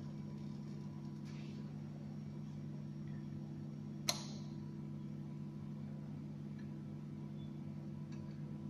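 Steady low electrical hum with a single sharp click about four seconds in.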